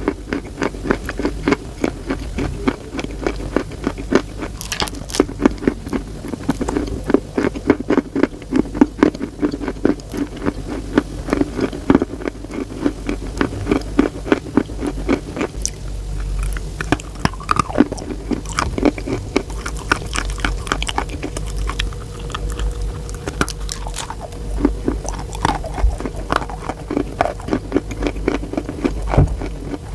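Close-miked chalk eating: a continuous run of quick, crisp crunches and crackles from biting and chewing, over a steady low hum.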